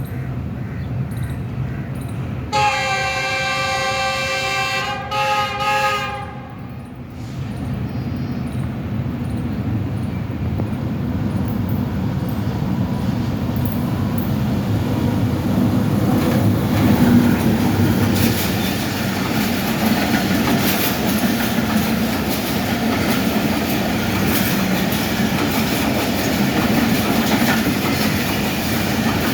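GE U40 diesel locomotive sounding its multi-tone horn in two blasts, the first long and the second short, over the engine's running. The express then passes at speed, wheels clattering over the rail joints, louder as the coaches go by.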